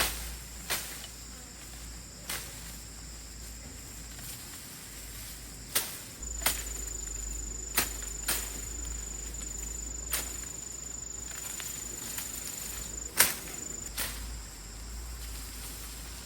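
A steady high-pitched insect trill, with about ten sharp clicks at irregular intervals over it, the loudest about thirteen seconds in.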